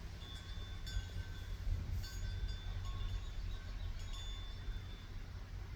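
Wind chimes ringing, several clear tones sounding and fading one after another, over a steady low rumble of wind on the microphone.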